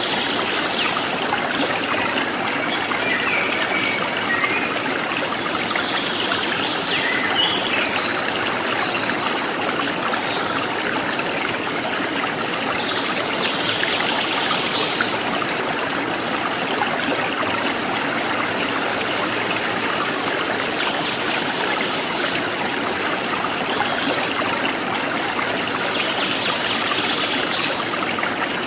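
Forest stream trickling and splashing steadily, with a few short, higher bird calls now and then.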